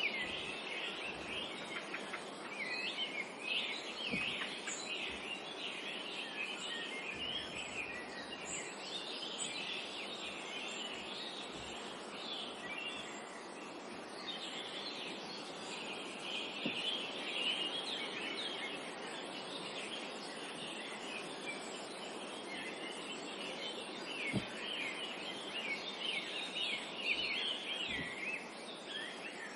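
Many birds chirping and twittering at once in a dense, continuous chorus, over a soft steady background hiss.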